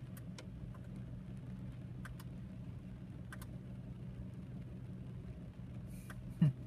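Steady low hum with a few faint clicks, and a short low sound falling in pitch near the end.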